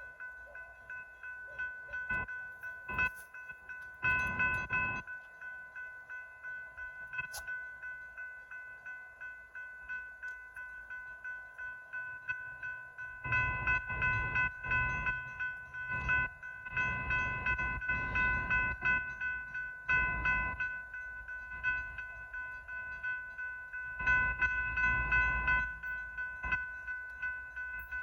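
Railroad crossing bell ringing with rapid, evenly repeated strikes. Stretches of low rumble come and go under it.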